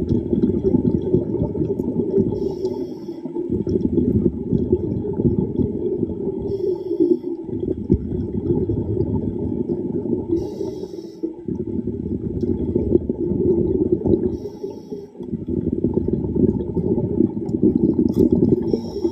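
A diver breathing underwater through a regulator: a short hissing inhale about every four seconds, each followed by a long stream of bubbling exhaled air.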